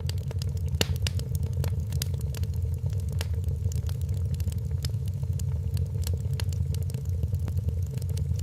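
Wood fire crackling, with many sharp pops at irregular intervals over a steady low rumble of burning.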